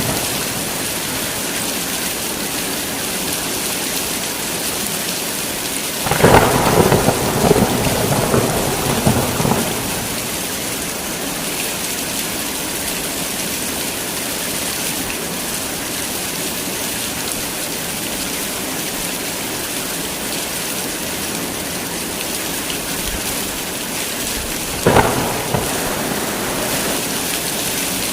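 Heavy rain falling steadily, with a thunderclap rumbling for about three seconds starting about six seconds in and a shorter, sharp crack of thunder near the end.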